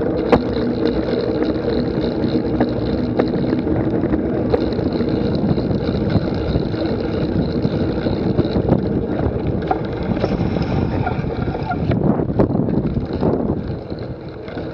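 Steady rumbling wind noise on the microphone, with indistinct voices and scattered clicks underneath.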